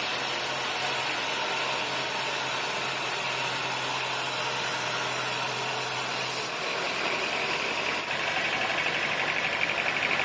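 Engine running steadily. About two-thirds through, its low hum drops away, and near the end a fast, even rattle comes in.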